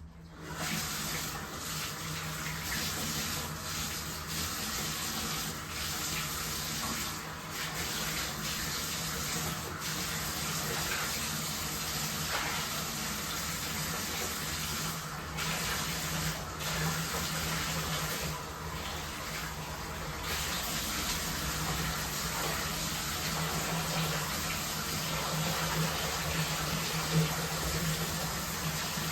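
Water running steadily from a bathtub tap into the tub, turned on just after the start, with a low steady hum under the rush of water.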